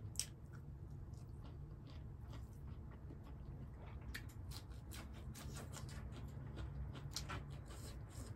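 Faint close-miked chewing of a mouthful of rice and pork curry, with scattered short mouth clicks, the sharpest just after the start, over a steady low hum.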